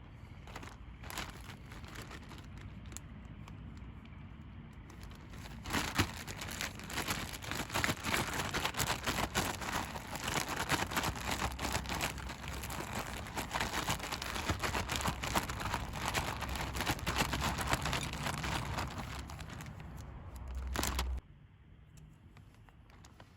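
Food frying in hot oil: a dense crackling sizzle that swells about six seconds in and cuts off abruptly near the end.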